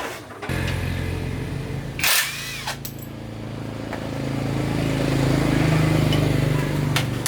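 Small motorcycle engine catching about half a second in and running steadily, with a sharp clack about two seconds in; its speed and level pick up a little near the end.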